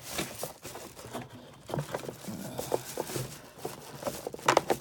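Hands handling the packaging of an HO model locomotive kit: scattered clicks, taps and rustles. There is a burst of sharper clicks near the end.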